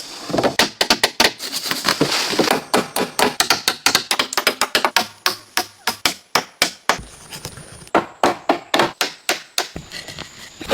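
Wood being chopped with a blade: quick, irregular sharp strikes, several a second.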